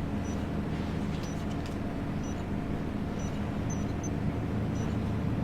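Steady low hum of a ship's engines, with faint short high beeps about once a second.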